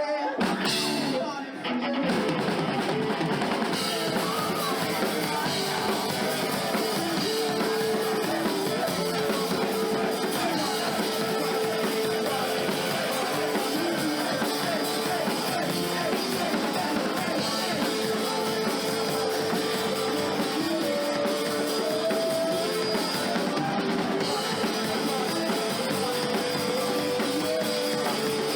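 Live rock band playing: drum kit, electric guitar and bass with some singing.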